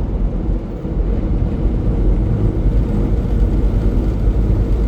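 Semi-truck driving on the highway, heard from inside the cab: a steady low engine drone mixed with road noise.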